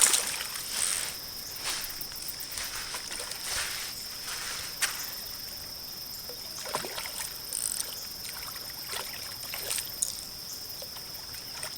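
Insects shrilling steadily at one high pitch, over light water splashes and scattered knocks and clicks from the kayak and fish handling.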